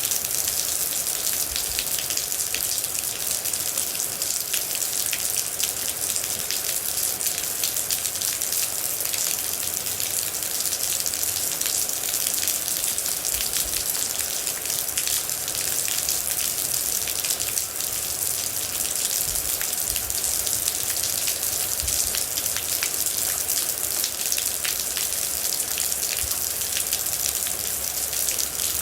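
Steady rain falling, with many individual drops striking close by as a dense run of small clicks over an even hiss.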